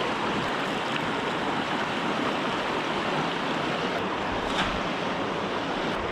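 Mountain stream water rushing steadily, an even noise that does not change.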